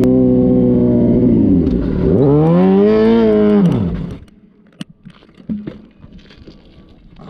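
Motorcycle engine held at high revs, its pitch dipping and climbing again before falling away; the engine sound stops abruptly about four seconds in, leaving only faint clicks and knocks.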